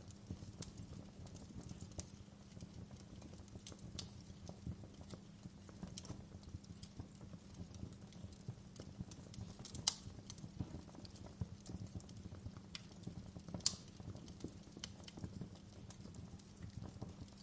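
Wood fire crackling: a steady low rumble of flame with irregular small snaps and pops, two of them louder, a little under halfway through and about three quarters of the way in.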